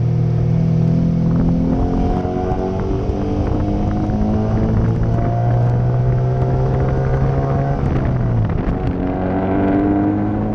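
Car engine under way, its pitch slowly rising as it pulls; about eight and a half seconds in the revs drop briefly, as at a lift or gear change, then climb again. Wind noise buffets the microphone, which is mounted outside the driver's window.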